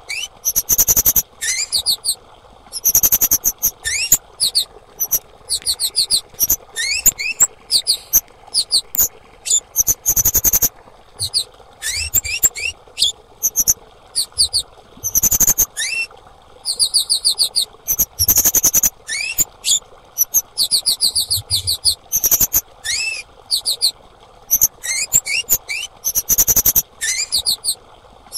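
Female kemade (cit keres) calling: short, quick bursts of thin, high chirps, each chirp rising in pitch, repeated about once a second with brief gaps, over a faint steady hiss.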